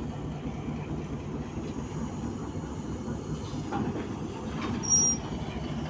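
HBU-20 diesel-electric locomotive running with a steady low rumble, with one short high-pitched squeak about five seconds in.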